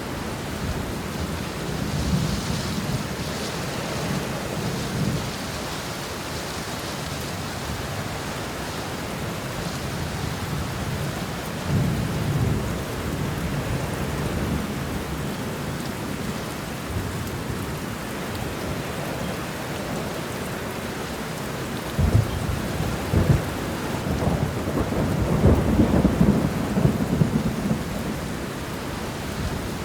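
Steady heavy rain with rolling thunder: low rumbles a couple of times early on, then a sharp crack about two-thirds of the way in followed by a longer rumbling peal.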